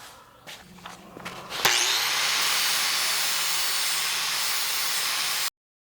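A motor-driven tool spins up with a rising whine and runs steadily with a loud airy hiss and a low hum, then cuts off abruptly.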